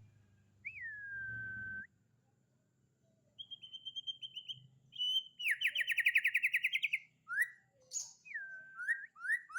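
A white-rumped shama (murai batu) singing: a long whistled note that slurs down and holds, a short pause, then a fine high trill and a loud, rapid rattle of chirps, followed by varied short whistled phrases.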